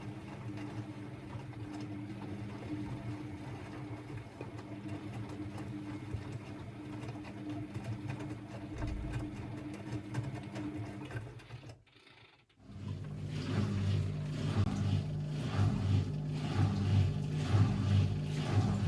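Constructa Energy 1000s washing machine running mid-cycle: a steady motor hum that stops briefly about twelve seconds in, then starts again louder and rougher, with a low pulsing rhythm.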